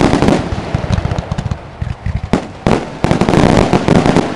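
Aerial fireworks bursting overhead: a loud bang at the start, then dense rapid crackling and popping, with two more sharp bangs about two and a half seconds in and a thick run of crackle after them.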